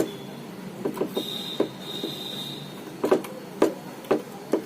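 A scatter of light clicks and taps from wires and terminals being handled, over a faint steady low hum, with a thin high whine for a moment in the middle.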